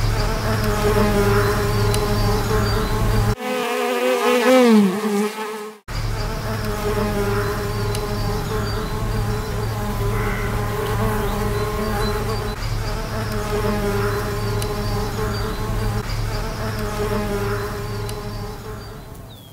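Bumblebee buzzing, a steady hum with several overtones. About three and a half seconds in, the buzz briefly wavers up and down in pitch for a couple of seconds before settling back to the steady hum.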